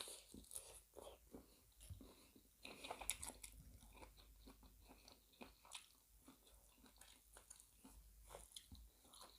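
Faint close-up chewing, with many small irregular crunches of fresh herb leaves and raw vegetables being eaten.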